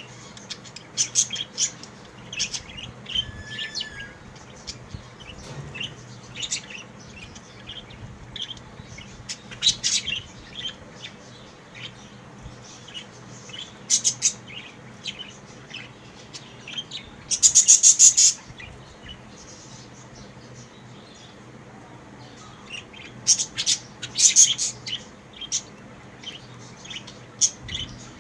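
Budgerigars chirping: many short, scattered high chirps, with a loud run of rapid chattering notes lasting about a second around two-thirds of the way in.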